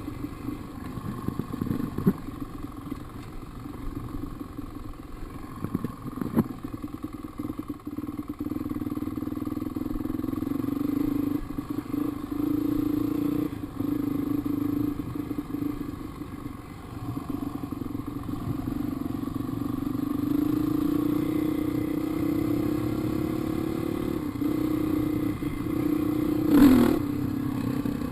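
Dirt bike engine running while being ridden, its note wavering with the throttle and climbing gradually in the second half. A few sharp knocks cut in, the last and loudest near the end, where the engine note drops suddenly.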